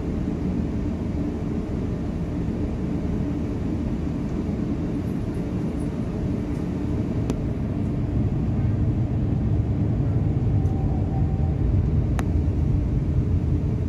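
Cabin noise of an Airbus A350-900 with Rolls-Royce Trent XWB engines: a steady low engine and airflow rumble that grows louder about eight seconds in. Two faint clicks can be heard in the cabin.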